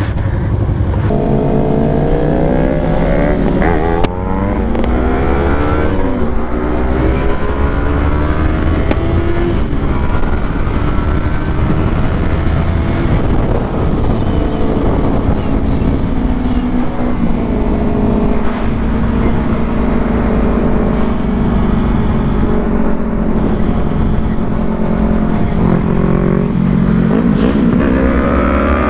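Sportbike engine under way, its pitch climbing as it accelerates through the gears in the first few seconds and again near the end, holding a steady drone at cruise in between. Heavy wind rumble on the microphone sits underneath.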